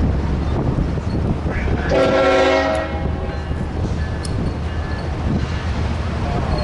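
Train with a steady low rumble, sounding one short horn blast about two seconds in that lasts under a second.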